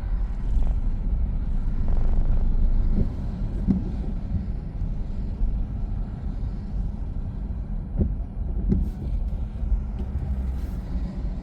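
A car driving: a steady low rumble of engine and road noise, a little louder in the first few seconds, with a few light knocks.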